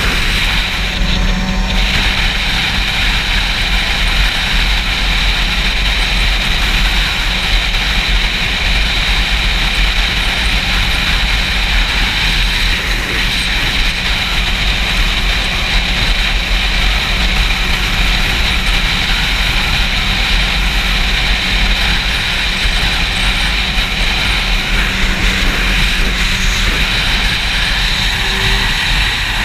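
Heavy wind noise buffeting a GoPro microphone on a moving Yamaha YZF-R6 sport bike, with a steady engine hum underneath.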